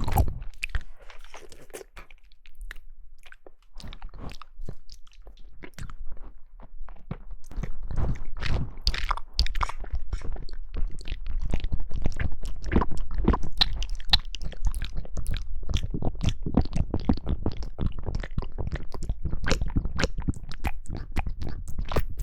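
Close-miked chewing and biting of jelly: a dense stream of wet clicks and crunches, sparse at first and then thicker and louder from about four seconds in.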